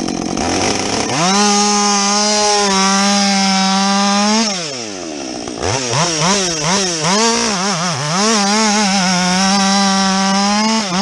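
Husqvarna 562XP chainsaw with a modified muffler revving to full throttle about a second in and holding steady. About four seconds in it drops back, is blipped up and down several times, then is held wide open again until it falls back off at the very end.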